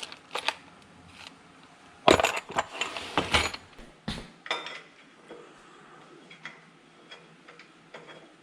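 Loose metal hardware, bolts and washers, being handled and set down: a burst of clinking and clattering about two seconds in, then scattered lighter clinks.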